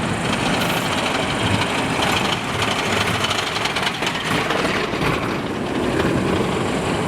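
Motorcycle riding over badly broken, patched asphalt: steady engine and wind noise with a dense, rapid clatter from the rough surface. The sound cuts off abruptly at the end.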